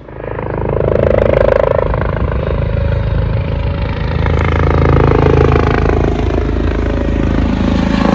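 Coast Guard helicopter running close by, loud rotor and turbine noise swelling up in the first second and then holding steady, its pitch shifting slowly.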